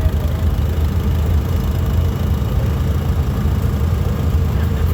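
Farm tractor engine running steadily at low speed, a deep even drone.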